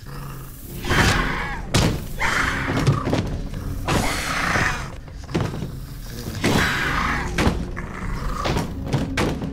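A series of heavy thuds and crashes, about one a second, with rough hissing and rumbling between them, as in a struggle.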